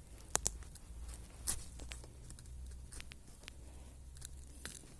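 Knife shaving thin curls from a stick of dry wood: irregular short scrapes and sharp clicks, a few strokes a second apart.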